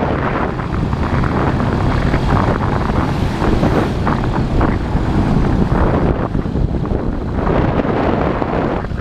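Motorcycle engine running under way, with wind buffeting the camera microphone.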